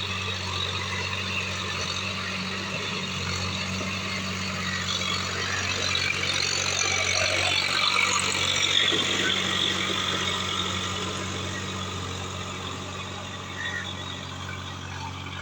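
Swaraj tractor's diesel engine running steadily in first high gear, with a constant low hum. It grows louder toward the middle and then fades.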